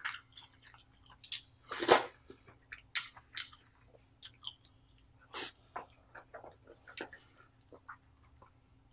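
Close-miked wet chewing and smacking of king crab meat coated in cheese sauce: irregular mouth clicks and sucking sounds, the loudest about two seconds in and again past five seconds.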